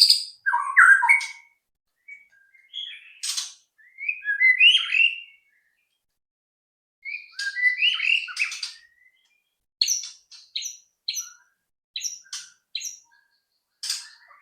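White-rumped shama (murai batu) singing: varied whistled and warbling phrases, a pause of about a second and a half midway, then a run of short sharp notes, two or three a second, near the end.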